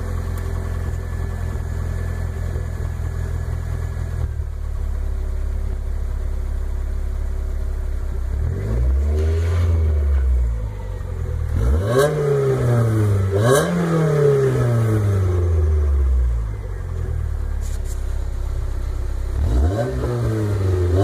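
1986 Toyota MR2's exhaust, a new aftermarket system with a new catalytic converter, idling steadily and then revved four times from about halfway through. The first rev is held for a couple of seconds, and the pitch rises and falls with each one.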